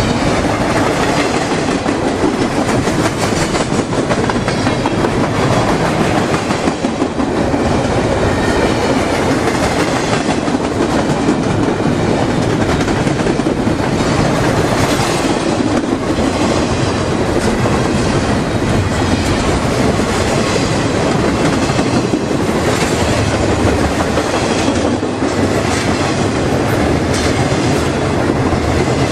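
Freight train cars rolling past close by, the steel wheels clacking steadily over the rail joints.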